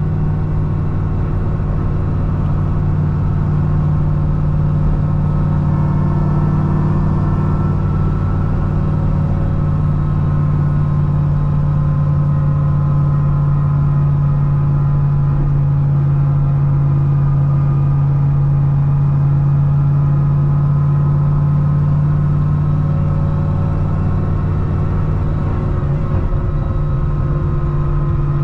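C6 Corvette ZR1's supercharged 6.2 L V8, fitted with a Kong 2650 supercharger, running at a steady cruise: a loud, even engine drone whose pitch hardly changes.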